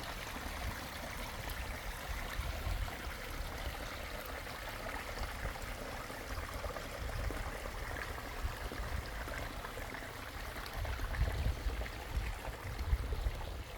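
Water from a pondless waterfall splashing and trickling over stones in a steady wash, with a low rumble underneath that grows stronger near the end.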